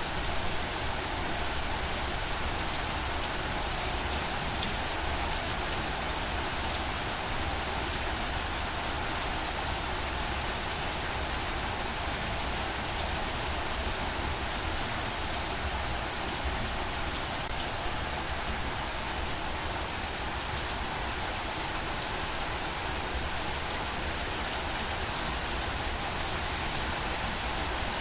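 Steady rain falling on a surface, a constant hiss with fine drop ticks and no change in strength.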